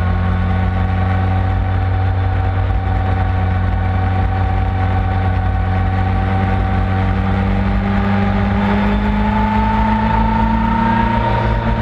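2008 Suzuki GSX-R1000's inline-four engine running steadily at moderate revs under heavy wind noise on the onboard microphone; the revs climb slowly in the last few seconds, then ease off slightly near the end.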